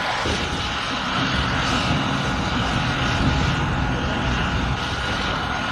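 Helicopter running, with a rapid low rotor chop under a steady high turbine whine.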